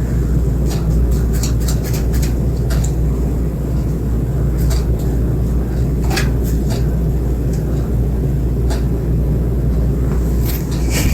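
Ceiling fan running: a steady low rumble with scattered irregular clicks and ticks.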